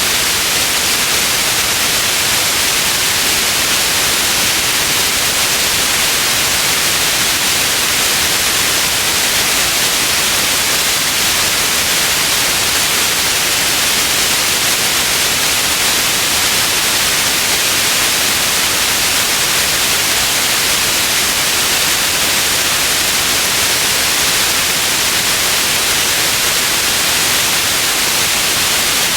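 Steady white noise for sleep: an even, unchanging hiss, strongest in the high end.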